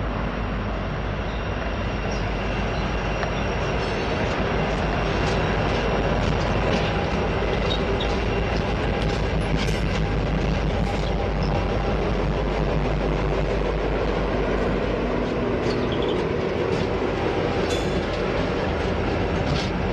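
Norfolk Southern diesel freight locomotives passing close by, their engines making a steady drone over the rumble of wheels on rail, with scattered sharp clicks from the wheels.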